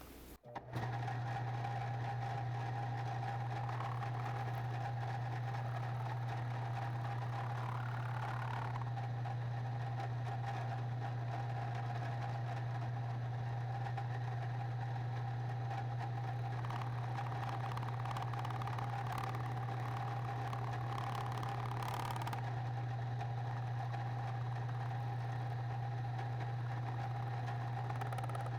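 Milling machine motor starting up about a second in, then running at a steady speed with a constant low hum and a steady higher whine.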